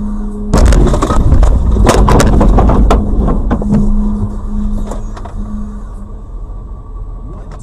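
Car crash on a dashcam: a sudden loud collision about half a second in, followed by crunching and clattering impacts for a couple of seconds that then fade, over a steady low engine hum.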